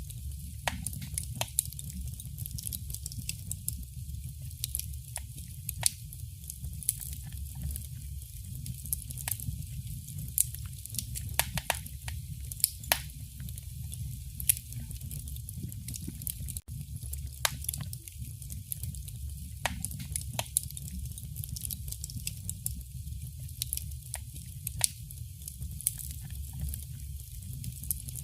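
Wood fire burning in a fireplace: irregular sharp crackles and pops, sometimes several close together, over a steady low rumble of the flames.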